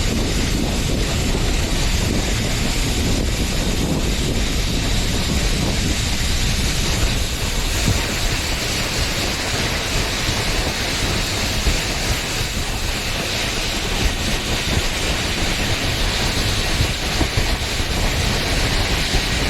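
Steady wind rush buffeting the GoPro's microphone, with the low rumble of linked snow tubes sliding fast down a snow-tubing lane.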